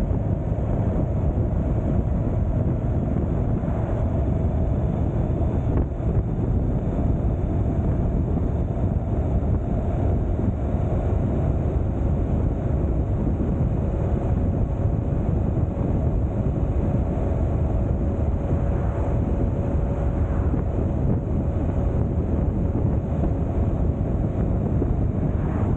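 Wind rushing over the microphone of a camera on a moving motorcycle, with the motorcycle's engine humming steadily underneath.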